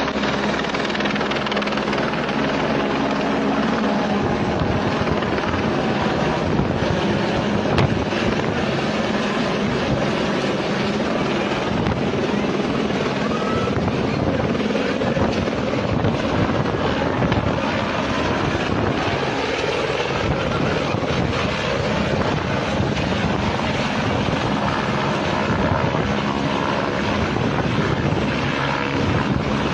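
Helicopter rotor and turbine noise, loud and steady, as heard close to the aircraft.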